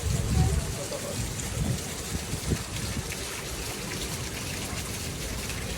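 Steady water noise, a hiss like rain or running water, with uneven low rumbling that is strongest in the first second.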